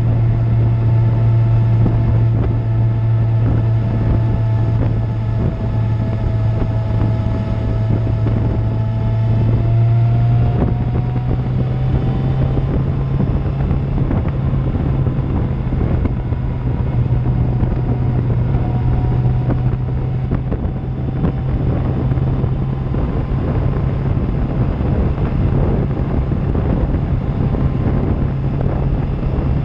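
Suzuki GSX-R750 inline-four with an Akrapovic exhaust running steadily at riding speed, with wind rushing over the microphone; the engine note climbs a little and steps up about ten seconds in, then holds steady.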